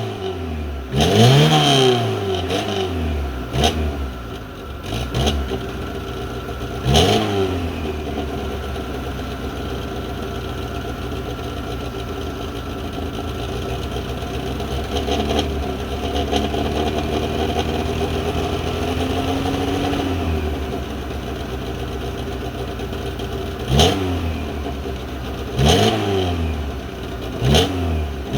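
Yugo car's exhaust as the engine is blipped: a few quick revs that rise and fall, then a steady idle for about fifteen seconds, then several more quick revs near the end.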